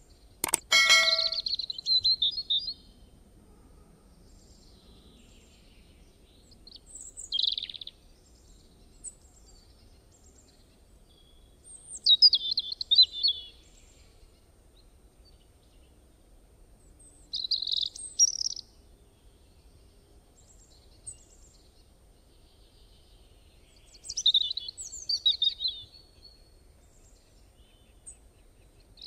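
A click and a short bright chime near the start, then birds singing: short bursts of high chirping song every few seconds, with faint hiss in between.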